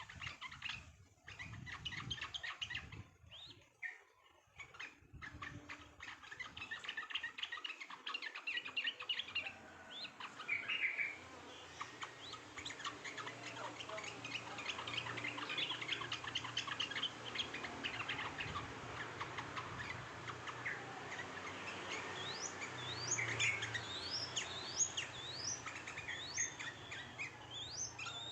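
Many small songbirds chirping and twittering at once, a dense run of quick overlapping chirps; in the last few seconds, a series of short upward-sweeping whistled notes.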